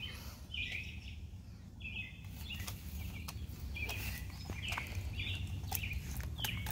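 A bird calling with repeated short chirps, one or two a second, over a steady low rumble with a few faint clicks.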